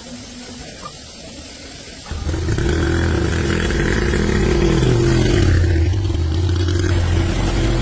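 Tractor engine coming in suddenly about two seconds in and then running steadily.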